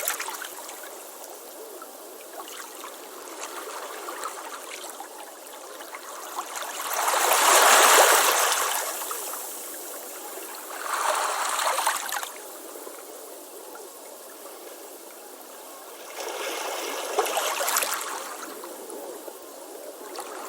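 Ocean waves on a beach: three waves break and wash in, the loudest about a third of the way through, with a steady hiss of surf between them.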